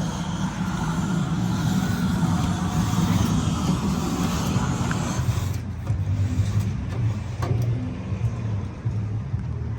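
A motor running steadily with a low hum under a wide hiss; the hiss thins out a little past halfway.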